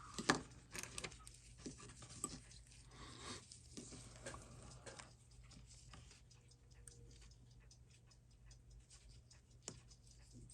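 Small metal tools clicking and tapping against the parts of a Seiko 6R15 watch movement as it is taken apart. The clicks are faint and irregular, coming thickly for the first few seconds, then sparser.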